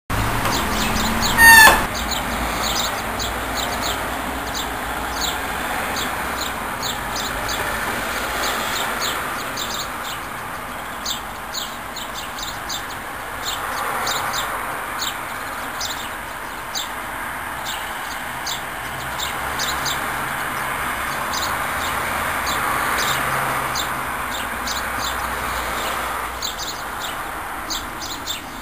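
Birds chirping outdoors: many short, high chirps repeating throughout over a steady hiss that swells and fades. A brief loud rising call stands out about a second and a half in.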